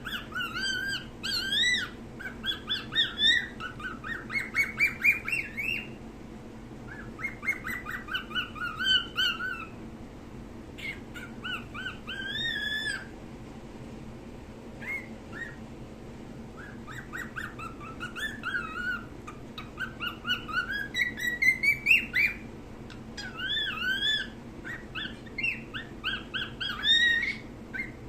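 Cockatiel whistling its song in phrases of quick rising and falling notes, with short pauses between phrases.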